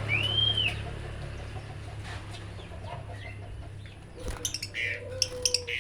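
Caged birds calling: one arched whistle, rising then falling, at the start, then a flurry of short, sharp chirps in the last second and a half, over a steady low hum.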